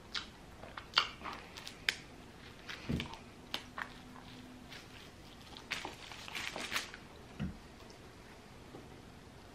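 Close-miked mouth sounds of a man biting into and chewing a soft turkey, stuffing and cranberry sub roll: many short, unevenly spaced wet clicks and smacks, busiest about six to seven seconds in.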